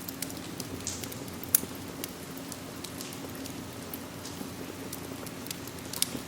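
Steady rain hiss with a wood fire crackling over it: scattered sharp pops, the loudest about a second and a half in and another near the end.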